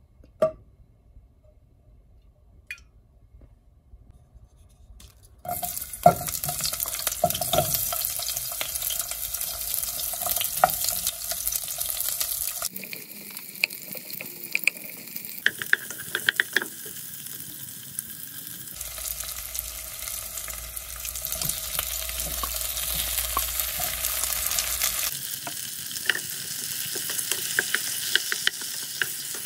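A sharp knock near the start, then from about five seconds in, onion and tomato wedges sizzling in hot oil in a pot. They are stirred with a wooden spoon that clicks and scrapes against the pan.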